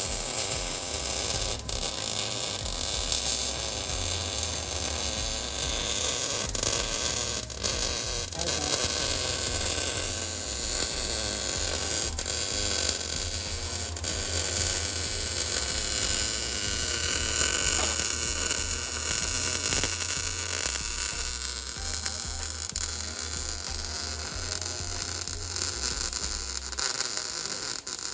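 Welding on the exhaust straight pipe: a steady, loud crackling hiss with faint ticks in it.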